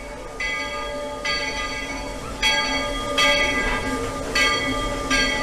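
Steam locomotive bell ringing with slow, evenly spaced strikes, about one a second, each one ringing on into the next.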